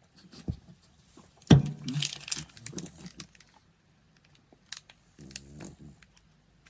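Plastic chocolate-bar wrapper (a Cadbury Star Bar) torn open with a sharp snap about a second and a half in, then crinkling as it is peeled back. Scattered light crackles follow, and a short low vocal sound comes a little after five seconds.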